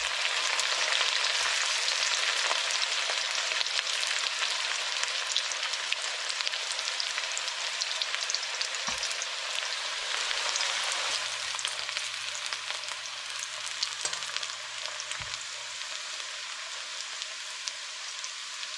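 Chopped onions sizzling and crackling in hot oil in a karahi, the frying hiss easing off gradually as the onions cook.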